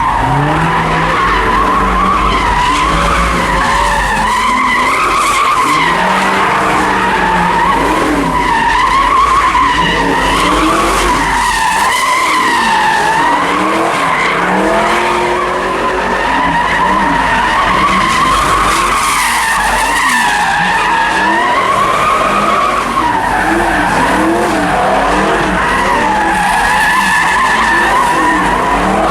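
Car tyres squealing without a break as a car spins donuts, the squeal wavering up and down in pitch, with the engine revving up and down beneath it.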